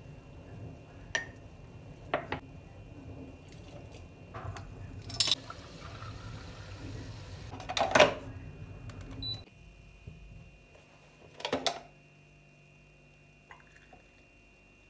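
Scattered knocks and clicks of things being handled, the loudest about eight seconds in, over a low steady hum that drops away about nine and a half seconds in.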